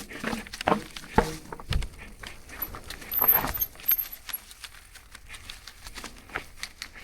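Marin Alpine Trail 7 full-suspension mountain bike rattling and clunking as it rolls down a rough trail over rocks and roots. Irregular knocks come through, with sharp ones about one and two seconds in and a longer rattling stretch around three seconds in.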